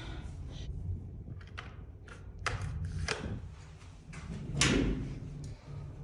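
Several sharp knocks and thuds over a steady low hum, the loudest a little before the end.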